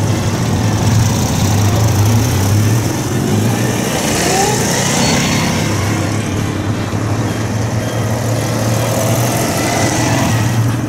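Citroën 2CVs' air-cooled flat-twin engines running as the cars drive past one after another, a steady low drone.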